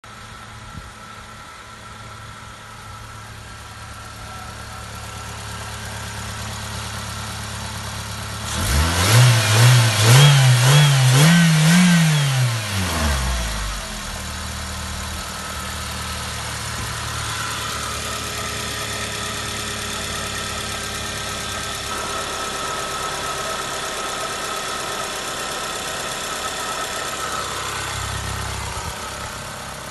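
Suzuki SX4 four-cylinder petrol engine idling, revved in a run of quick blips for about four seconds that climb in pitch, then dropping back to a steady idle.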